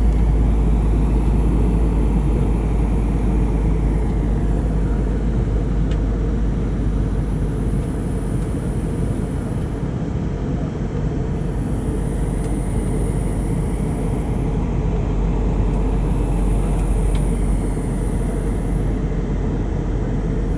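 Steady low rumble of airliner cabin noise in flight, engines and rushing air.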